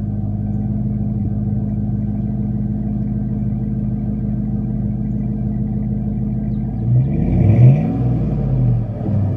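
2001 Chevrolet Tahoe's 5.3 L Vortec V8 idling steadily through a Thrush welded single-in, dual-out exhaust with 3.5-inch slash-cut tips. About seven seconds in it is revved once, quickly rising and falling, then blipped again just before the end.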